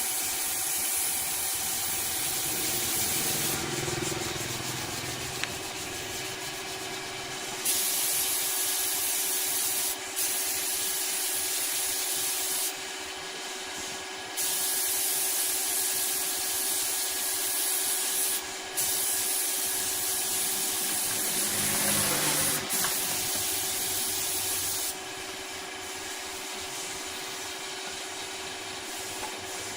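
Workshop machinery running with a steady hum and a loud hiss that cuts out and comes back several times, in stretches of a few seconds each.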